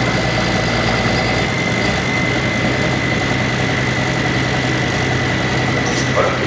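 Diesel engine of a hot farm pulling tractor running steadily, with a steady high whistle over the engine that cuts off near the end.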